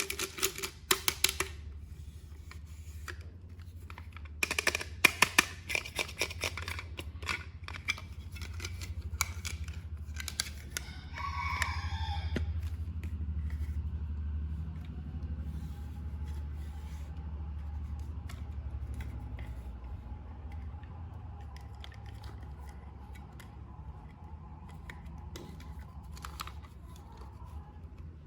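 Toy packaging being handled and opened by hand: a run of sharp clicks and short crinkling bursts of plastic and cardboard, busiest in the first half, over a steady low hum.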